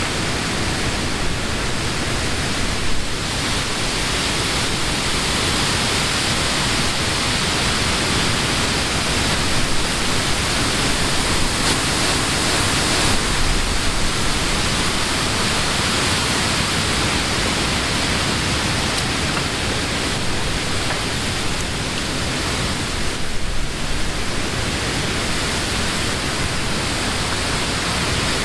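Wind blowing through the leaves of trees: a steady rushing hiss with slight swells.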